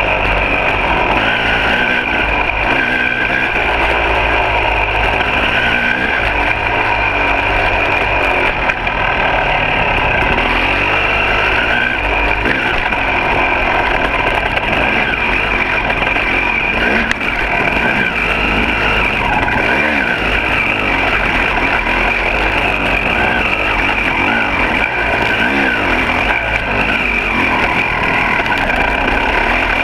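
Two-stroke dirt bike engine running continuously while riding a trail, its pitch rising and falling as the throttle is worked.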